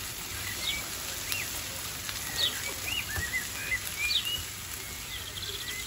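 Small birds chirping, a string of short rising and falling calls, over a steady low hiss of onions frying in a pan.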